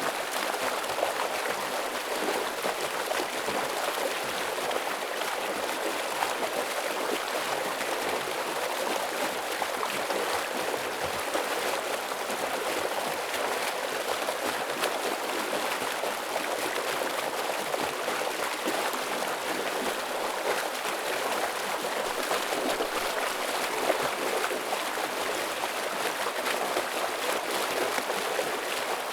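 Stream water flowing fast over rocks, a steady heavy rushing.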